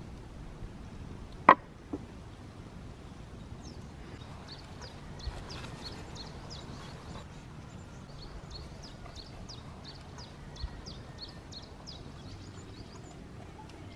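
A sharp knock about a second and a half in, with a lighter one just after. Then a small bird sings a long run of short, high chirps, several a second, until near the end.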